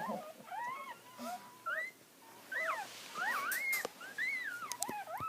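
Newborn puppies crying: a run of short, high squeaks and whines, each rising and falling in pitch, one after another.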